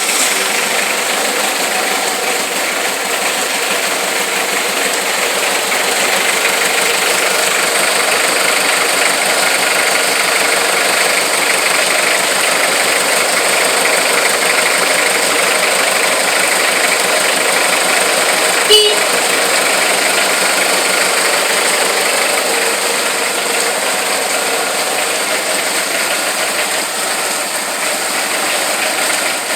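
Mitsubishi MT1801 compact tractor's engine running steadily at idle. A single sharp click sounds about two-thirds of the way through.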